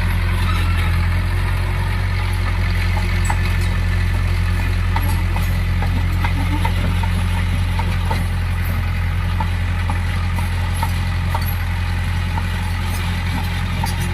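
Heavy diesel engine of a Cat bulldozer running at a steady speed, a constant low drone, with faint scattered clicks above it.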